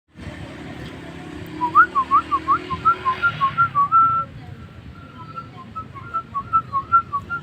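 A jalak starling whistling: a quick run of clear rising and falling whistled notes, a held note about four seconds in, then more short slurred whistles.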